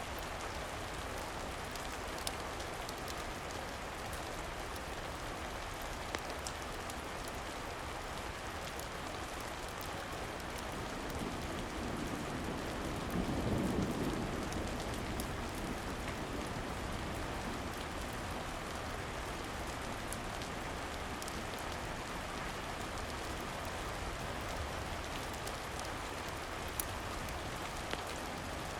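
Steady rain falling on a surface, with a low rumble of thunder swelling and fading near the middle. A few sharp single clicks are scattered through it.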